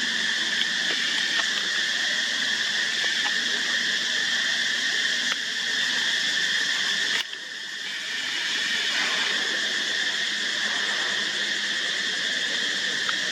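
A steady, high-pitched buzzing drone that dips suddenly about seven seconds in and builds back up.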